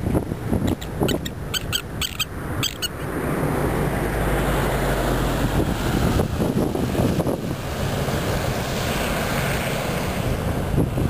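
A quick run of about eight short, high piping bird calls in the first three seconds, over a steady low rumble with a faint hum and wind buffeting the microphone.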